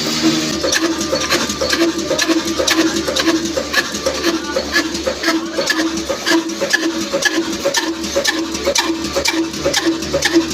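Large old Ruston diesel engine running at a steady speed, with a regular, even beat and a sharp click on each stroke.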